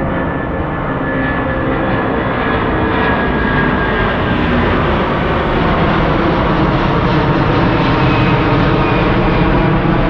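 Jet airliner climbing out after takeoff, its engine roar growing steadily louder, with a sweeping, phasing quality as it comes overhead.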